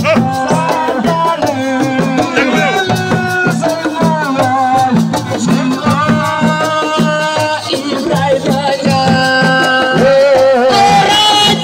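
Live assiko band music: a fast, steady drum rhythm with rattles, under a gliding melody line.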